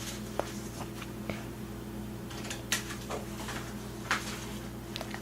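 Paper and scissors being handled: a few scattered soft clicks and short rustles over a steady low hum.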